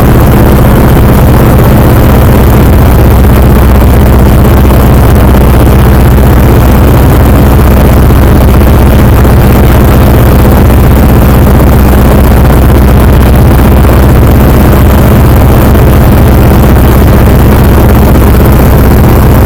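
Antonov An-2's nine-cylinder radial engine running loud and steady, its pitch unchanging throughout.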